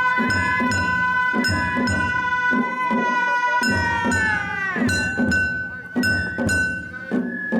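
Festival float music (hayashi): a bamboo flute holds long high notes, one sliding down about halfway through, over a steady beat of drums and ringing metal percussion strikes.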